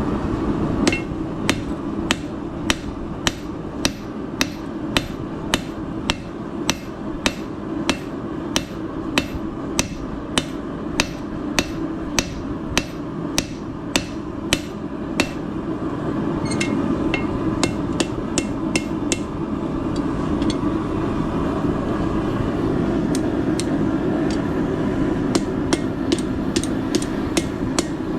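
Hand hammer striking a hot-forged steel holdfast on an anvil in a fast, steady rhythm of about two blows a second. The blows pause briefly about halfway through, then come as lighter, more scattered strikes, over a steady rushing noise.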